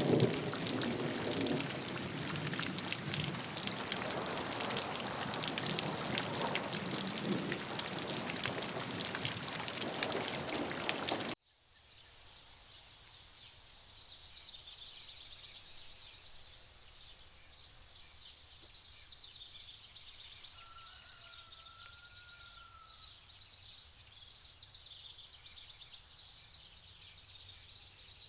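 A loud, steady rushing hiss of outdoor ambience cuts off abruptly about eleven seconds in. It gives way to a quiet woodland ambience with birds chirping high and faint, and a single longer whistled bird call a little past the twenty-second mark.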